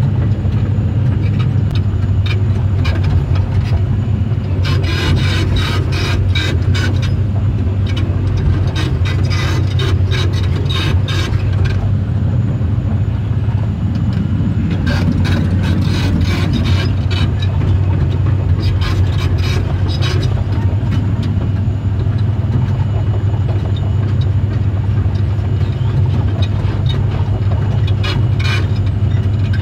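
Sany SR150C rotary drilling rig travelling on its crawler tracks: a steady diesel engine drone, with several bouts of rapid clicking and scraping from the moving track chains.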